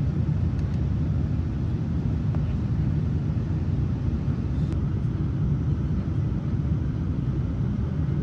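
Steady low rumble of airflow and engines inside the cabin of a Boeing 787-9 Dreamliner on its descent, with a few faint ticks.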